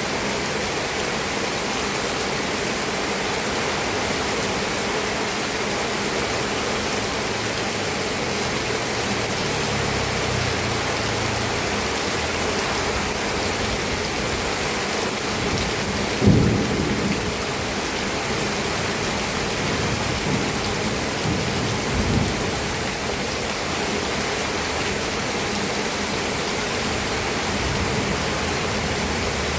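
Steady rain falling. Low rumbling comes and goes, with a sudden low boom about halfway through and a smaller one a few seconds later.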